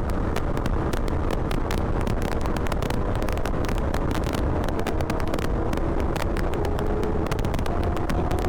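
Motorcycle riding on the road: steady wind rush on the microphone over the engine, whose note climbs slowly in the second half.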